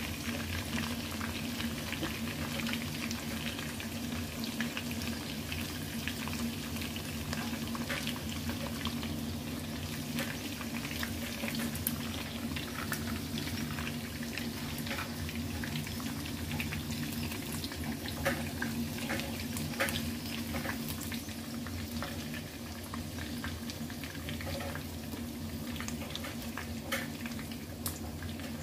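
Battered chicken pieces frying in hot oil in a pan: a steady sizzle with many scattered crackling pops, over a steady low hum.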